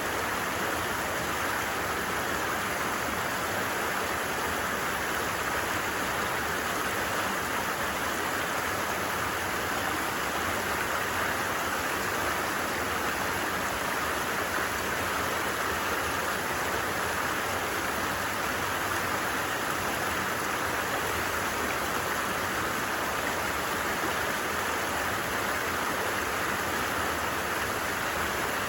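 A creek flowing over stones, a steady even rush of water with no change.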